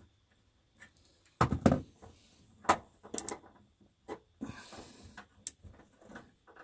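Scattered clicks and knocks of a bathroom heater's parts being handled, with a brief scrape, as a pulled-out piece is worked to go back into the housing.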